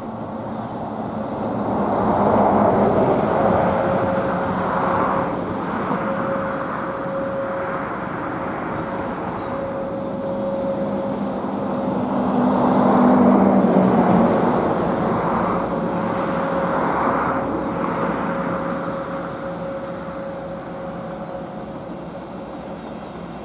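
Airbus A320 running on the runway during a braking test: a steady rush of engine and rolling noise that swells twice, once about two seconds in and more strongly about halfway through, with a faint steady tone under it.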